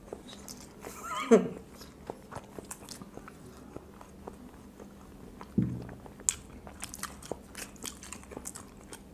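Close-up chewing and mouth noises of people eating boiled quail eggs fast, made up of many small wet clicks and smacks. A brief voiced sound comes about a second in.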